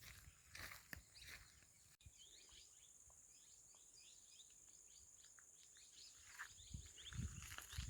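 Faint rural outdoor ambience: many small birds chirping with a steady high-pitched insect drone behind them. A few footstep-like knocks sound in the first two seconds and soft low thumps near the end.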